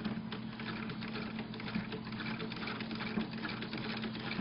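Hand-cranked sewing machine running, its needle and feed mechanism making a steady run of light clicks.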